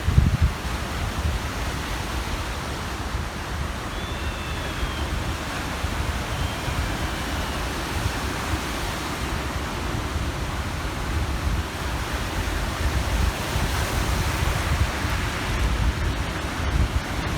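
Waves washing onto the shore of a large reservoir, heard as a steady rush, with wind buffeting the microphone in an uneven low rumble. A faint short bird call comes twice, about four and six seconds in.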